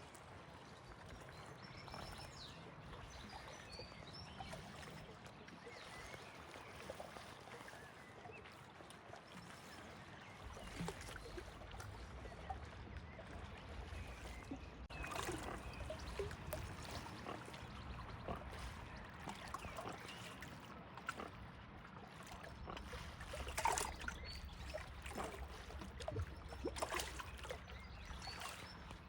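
Lake water lapping and splashing at the shore in small irregular washes, with faint bird chirps early on and a low wind rumble in the second half.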